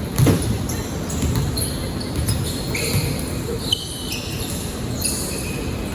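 Basketball being dribbled on a court during a game, a run of low bounces, with short high squeaks of sneakers on the floor, most of them in the second half.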